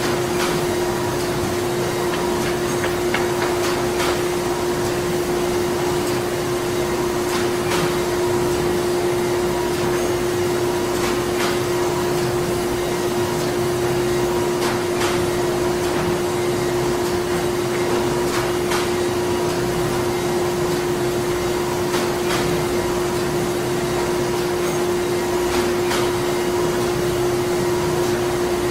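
Printing-factory ambience: steady machine noise with a constant hum running underneath, and faint, irregular clicks from the machinery every few seconds.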